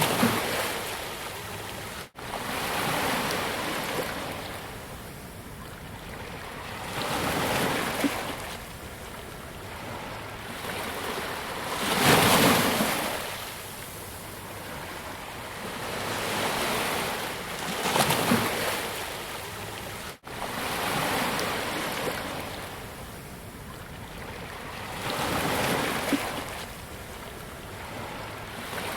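Ocean waves breaking on a beach, each surge swelling and washing back every few seconds, the loudest about twelve seconds in. The sound cuts out for an instant twice.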